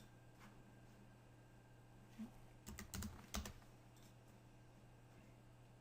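A few faint computer keyboard keystrokes, about four quick taps in the middle, over a low steady hum.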